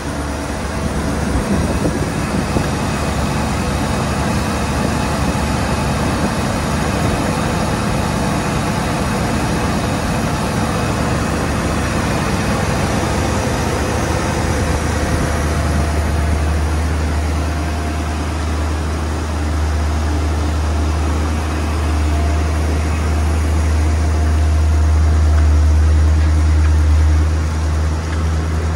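Mercedes-Benz 450SL's V8 engine idling steadily, its low rumble getting stronger about halfway through.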